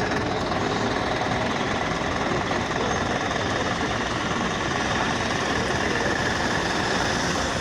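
An engine running steadily, with a rough, rapid knocking clatter.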